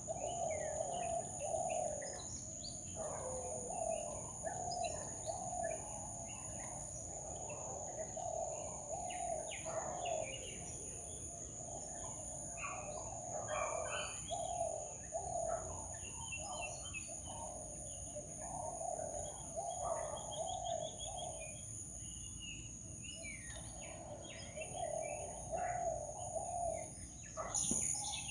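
Jungle ambience with several birds calling and chirping. A low, wavering call repeats through most of it, over a steady high-pitched insect drone.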